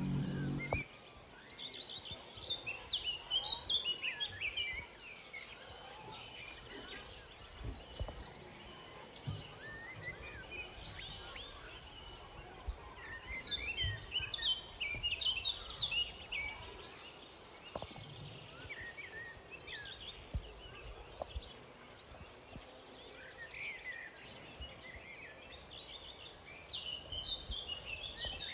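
Small aviary birds chirping and twittering in scattered bursts over a steady, high-pitched drone. A low pitched sound cuts off about a second in.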